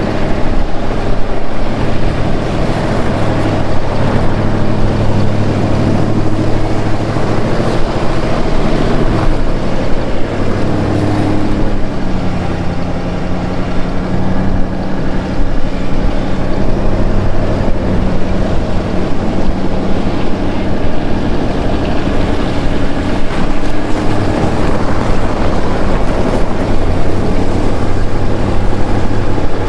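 Ford F-150 pickup's engine running steadily as the truck drives over snow, its note shifting about twelve seconds in.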